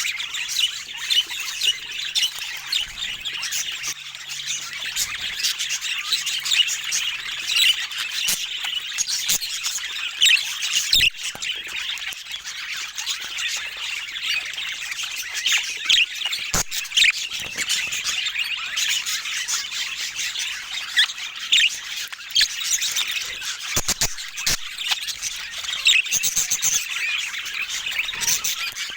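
Budgerigars chattering and chirping continuously, with a few sharp clicks along the way.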